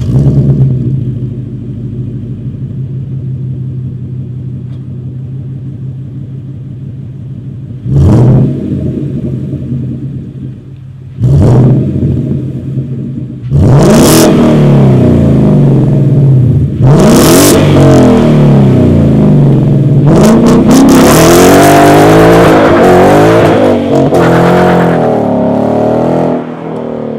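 2015 Ford Mustang GT's 5.0-litre V8 through a Kooks 3-inch cat-back exhaust with X-pipe: it starts with a loud flare and settles to a steady idle. It is then blipped in several sharp revs and finally run up and down through the revs for several seconds before cutting off near the end.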